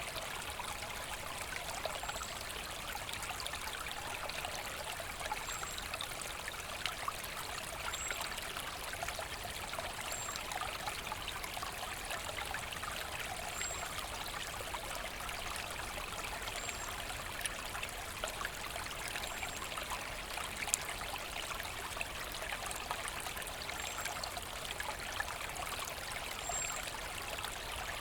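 Forest brook babbling and trickling steadily, with a faint short high chirp every two to three seconds.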